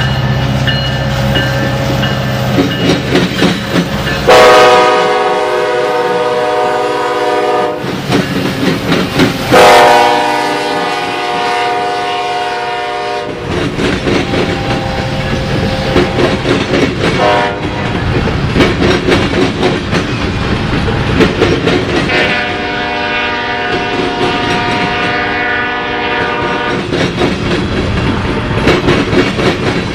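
Locomotive air horn sounding the grade-crossing signal, long, long, short, long, as a train approaches and passes. Its wheels click over the rail joints, with a low engine rumble near the start.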